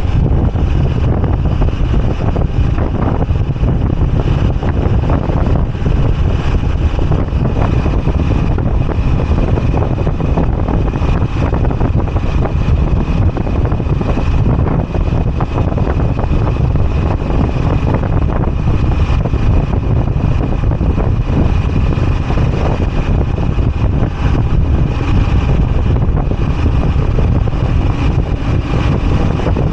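Moto Guzzi V85TT's air-cooled V-twin engine running steadily while riding, mixed with wind noise on the microphone.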